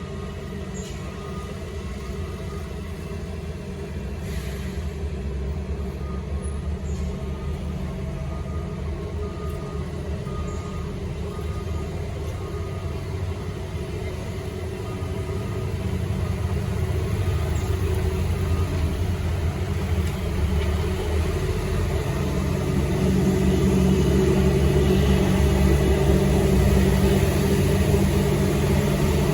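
Heavy truck engine running with a low rumble, growing steadily louder toward the end as the truck works closer. A faint reversing beeper sounds on and off in the first half.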